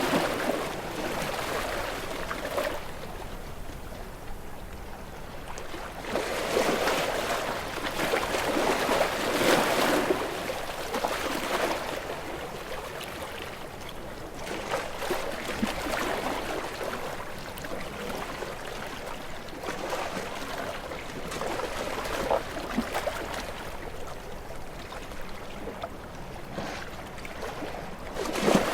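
Ocean surf: waves break and wash up the shore in a noisy hiss that swells and ebbs every several seconds.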